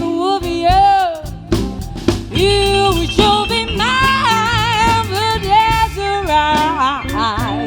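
Live blues band playing: a held, wavering lead melody over bass and drums, with short drum strokes throughout.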